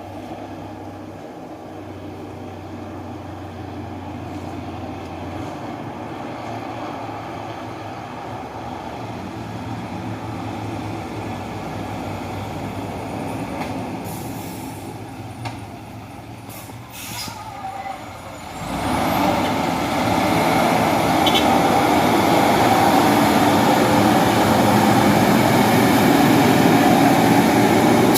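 Diesel engine of a rock-laden dump truck labouring up an incline, growing steadily louder and then much louder about two-thirds of the way through as the truck comes close.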